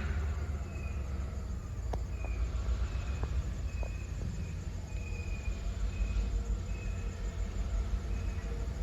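Insects chirping in a steady rhythm, a short high chirp about twice a second, over a continuous low rumble.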